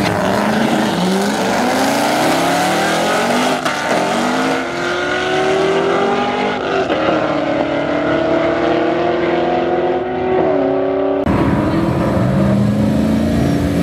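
Two cars launching in a drag race, their engines climbing in pitch and dropping back at each upshift, about three times. Shortly before the end the sound cuts to car engines running steadily at the start line.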